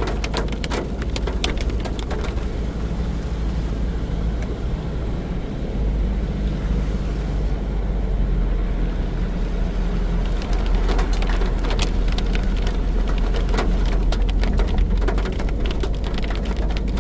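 Rain with hail pellets tapping on a car's windscreen and roof while it drives, over a steady low road and engine rumble inside the car. The tapping grows thicker from about halfway through.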